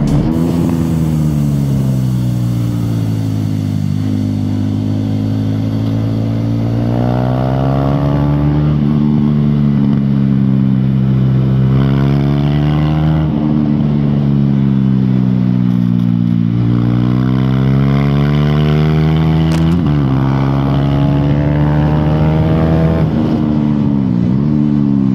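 KTM Duke 390's single-cylinder engine heard from on the bike, its revs rising and falling again and again with sudden jumps in pitch at gear changes.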